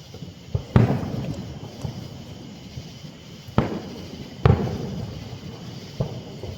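Aerial fireworks shells bursting: five sharp booms, the loudest about three quarters of a second in and again about four and a half seconds in, each followed by a fading rumble.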